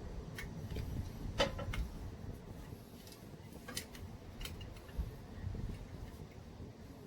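A few scattered light clicks and taps, the sharpest about a second and a half in, over a steady low rumble.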